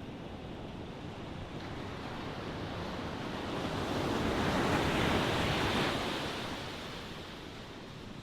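Ocean waves breaking and washing on the shore: a steady surf hiss with one wave swelling to a peak about halfway through and then receding.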